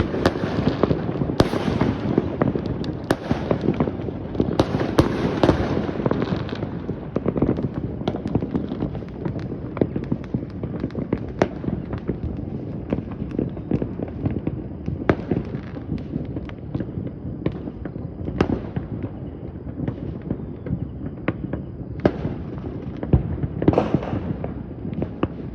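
Fireworks going off all around at once: a dense, continuous crackle of bursts and bangs that thins out after about seven seconds into scattered bangs, with a fresh flurry near the end.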